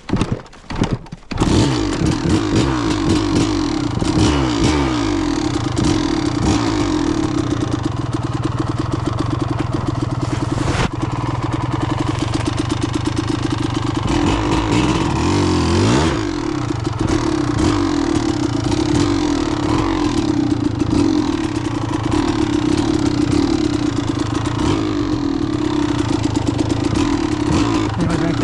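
Kawasaki KDX200's single-cylinder two-stroke engine starting about a second in after a few sharp knocks, then running under riding, revving up and down repeatedly.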